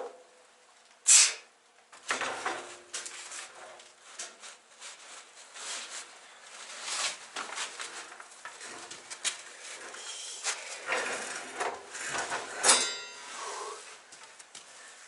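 Irregular knocks, clatter and scraping of work being handled, with one sharp, loud knock about a second in.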